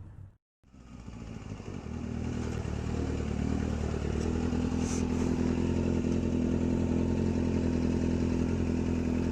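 Superbike engine running under a rider, building up over the first few seconds after a brief gap and then holding a steady speed.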